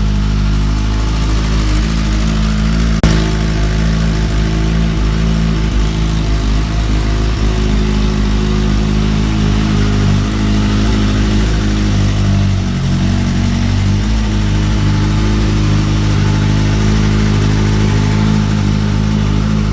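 Kawasaki ZX-6R inline-four engine idling steadily after its rebuild, running fine, with a single sharp click about three seconds in.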